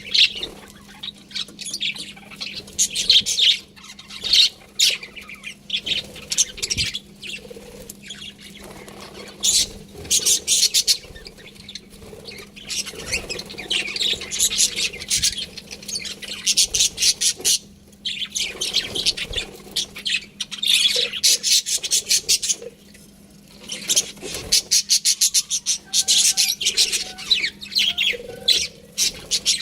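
Budgerigars chirping and chattering: fast high warbling runs of a few seconds each, with short pauses between, over a faint steady hum.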